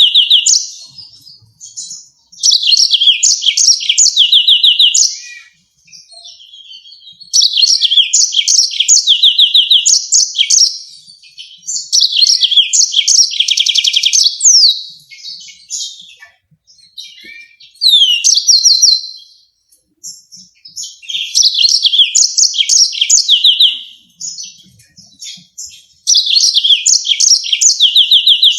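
Yellow-fronted canary singing in phrases of two to three seconds, each made of fast repeated chirps and trills with a few down-slurred notes. Short pauses fall between the phrases.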